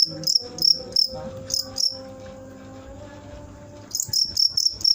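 Cricket chirping close by: short, loud, high-pitched chirps repeating several times a second, breaking off for about two seconds mid-way, then resuming in a quicker run.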